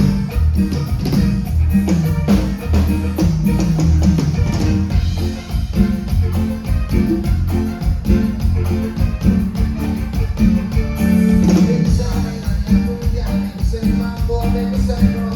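Live cumbia band music: drum kit, bass and guitar playing a steady dance beat.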